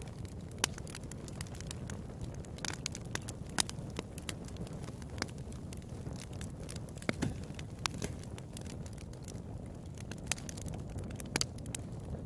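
Wood fire burning in a fireplace, crackling, with frequent irregular sharp pops over a steady low rumble of the flames.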